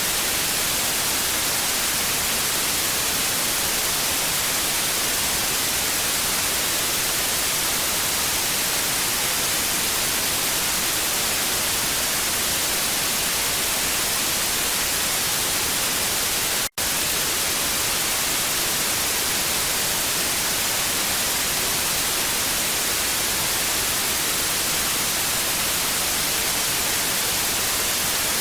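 TV static: a steady, even hiss, brightest in the high end. It cuts out for a split second about 17 seconds in.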